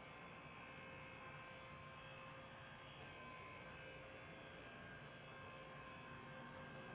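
Faint, steady hum and whine of an HO-scale model locomotive's electric motor running at a constant speed on track.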